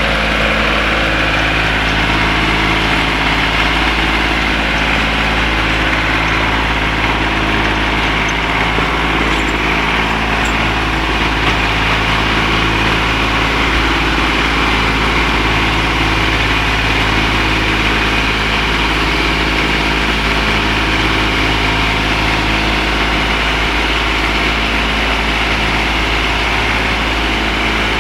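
1961 Nuffield tractor engine running at a steady, unchanging speed, with a slow, regular wavering in its note.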